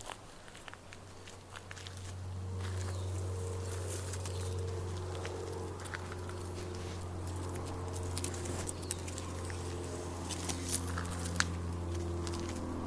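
Footsteps on a bush path, a steady run of small crunches and clicks, over a low engine drone from road traffic that swells about two seconds in and then holds steady.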